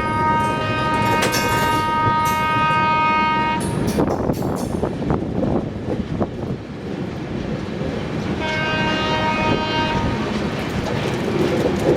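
Train horn sounding twice over the steady rumble and clatter of a moving passenger train: a long blast that ends about three and a half seconds in, and a shorter one of about a second and a half just past eight seconds in.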